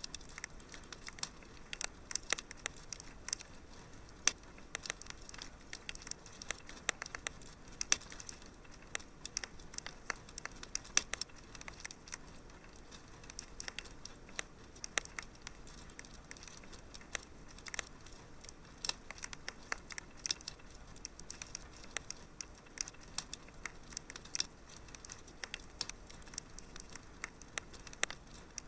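Fireplace crackling: a steady soft hiss with frequent irregular sharp pops and snaps.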